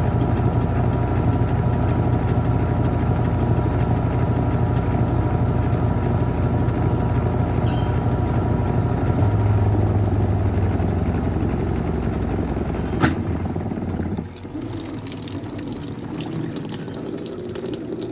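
Brastemp Clean washing machine running with a steady motor hum. About two-thirds of the way through there is a click, the hum stops, and water starts rushing in, as when the tub fills.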